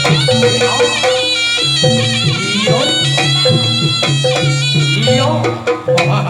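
Javanese jaranan music: a shrill reed wind instrument plays a melody of held, bending notes over a repeating low accompaniment. It breaks off briefly with a few sharp hits near the end.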